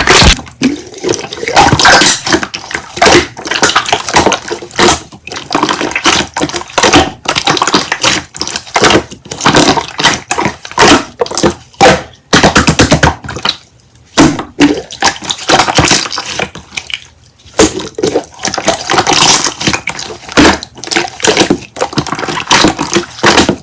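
Slime being squished and kneaded by hand, an irregular run of sticky clicks and pops with short pauses.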